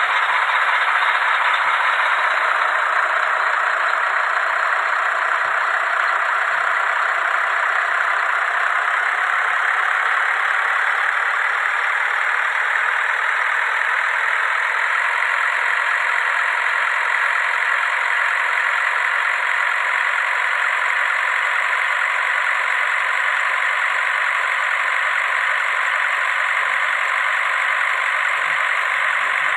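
Dump truck's engine running steadily, a continuous noise that changes little in pitch.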